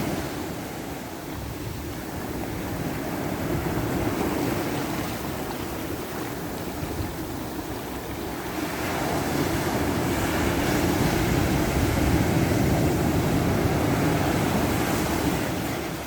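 Ocean surf breaking and washing in, a steady rushing noise that swells a few seconds in and again for several seconds in the second half.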